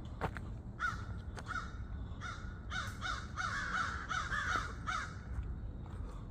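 Several crows cawing over and over as they mob a barred owl, the harsh caws starting about a second in and coming thick and overlapping in the middle before thinning out.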